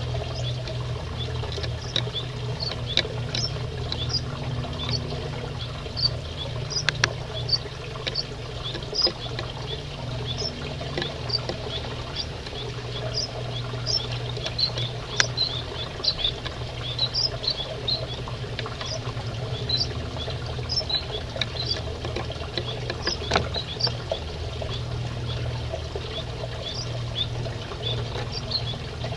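Aviary finches calling: a steady stream of short, high chirps, several a second, from a number of birds at once, over a steady low hum.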